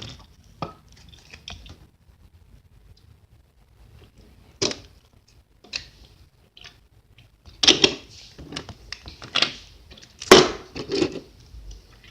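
Irregular clicks and clattering knocks of small plastic toy trains being handled and knocked together, with a few louder knocks in the second half.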